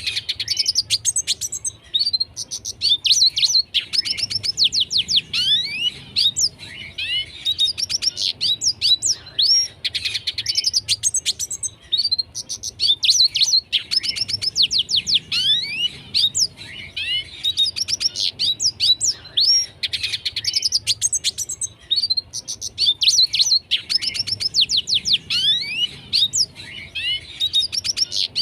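Red siskin singing without pause: a fast, twittering song of chirps, trills and rising whistled notes, in phrases broken by short gaps.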